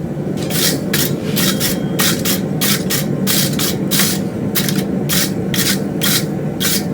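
Quick back-and-forth strokes of a hand tool scraping along the forged railroad-spike steel, about three a second, starting about half a second in. A gas forge's steady low rumble runs underneath.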